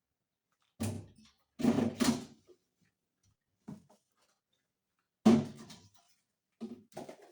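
A series of separate knocks and bumps, like hard objects being handled and set down, with a pair close together about two seconds in and the loudest a little after five seconds.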